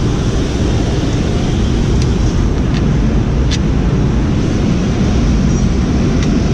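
Steady, loud rumbling noise of a car heard from inside the cabin, with a few brief faint clicks.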